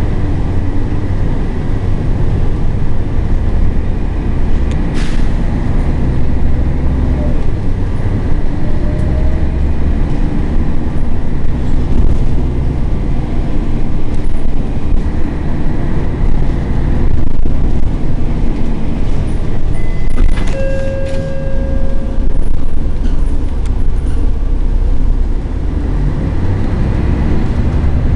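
Scania L113CRL bus's six-cylinder diesel engine running under way, a loud steady low drone that swells and eases with the throttle. A few sharp clicks sound around five seconds and again about twenty seconds in, along with brief high tones.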